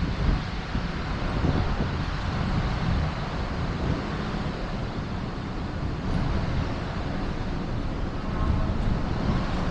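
Steady outdoor rumble of motor vehicles, with wind buffeting the microphone.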